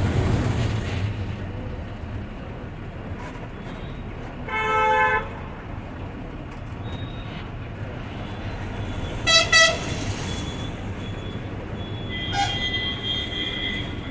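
Steady engine and road rumble inside a moving bus's driver cabin, broken by vehicle horn honks: one about a third of the way in, two short blasts in quick succession just past the middle, and a longer, higher-pitched horn near the end.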